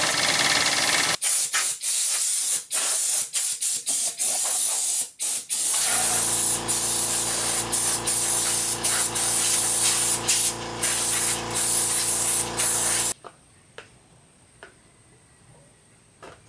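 A loud hissing spray jet, cut by many brief pauses, with a steady machine hum joining about six seconds in; both stop suddenly near the end, leaving a few faint clicks.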